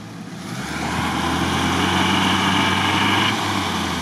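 UAZ off-roader's engine revving up about half a second in and then held at steady high revs as the vehicle strains to get through the swampy mud.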